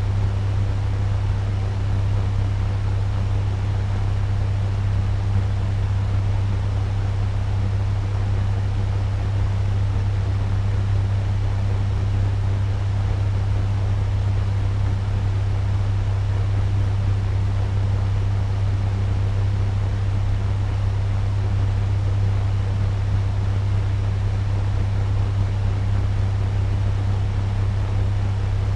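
Turbo fan running steadily at medium speed: an even rush of moving air over a strong, constant low hum.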